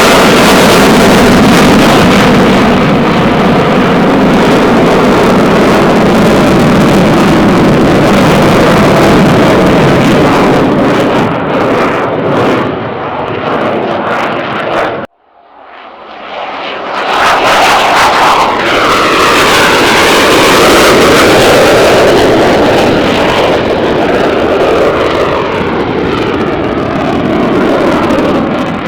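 Loud jet noise from a Eurofighter Typhoon's twin engines in its climb. About halfway through the sound cuts off abruptly, and the noise of a Spanish Air Force F-18 Hornet's twin jet engines fades in, sweeping in pitch as it passes.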